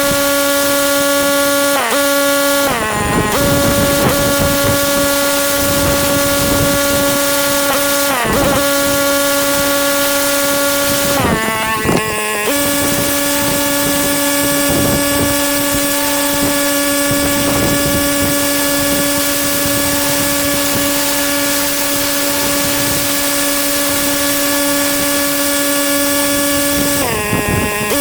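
Pressure washer engine running steadily under spray hiss. Its pitch dips briefly and recovers about five times.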